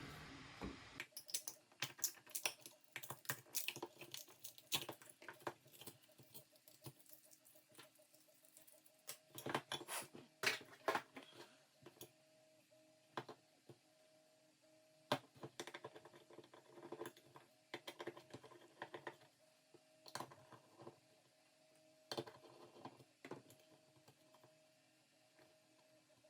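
Faint, irregular clicks, taps and scrapes of a hand tool picking and prying at the inside of an LED floodlight, digging out silicone glue around its board, with a few louder clusters of clicks. A faint steady hum sits underneath.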